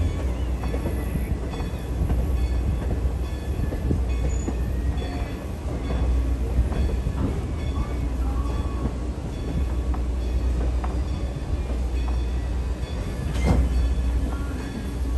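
Train ride from inside or on a passenger coach: a steady low rumble of the wheels rolling on the rails, with scattered clicks and knocks from the running gear and one sharper knock near the end.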